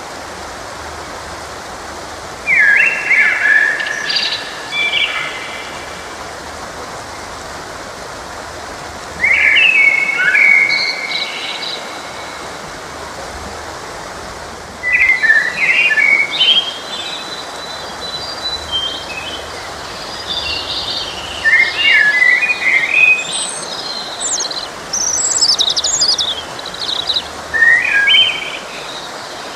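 Songbirds singing in short, varied phrases every few seconds, with busier overlapping song in the second half, over the steady rush of a flowing stream.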